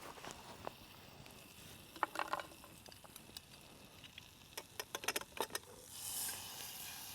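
Campfire with a steak cooking over it: sharp cracks and knocks come in clusters about two seconds in and again around five seconds in, then a hissing sizzle swells up from about six seconds in.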